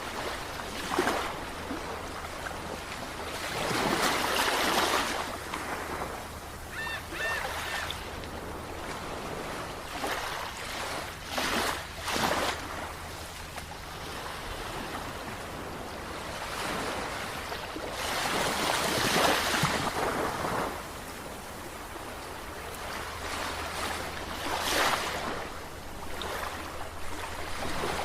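Sea waves surging and washing in, a swell of surf every few seconds, over a low steady rumble.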